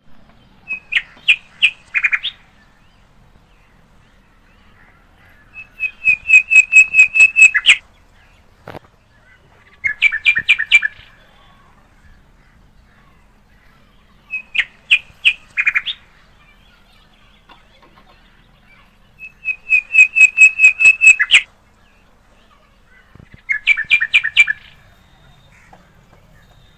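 A bird singing loud phrases of quick, evenly repeated notes, each phrase one to two seconds long, coming back every four to five seconds.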